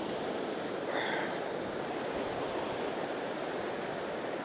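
Surf on a sandy ocean beach, waves washing in as a steady rushing noise.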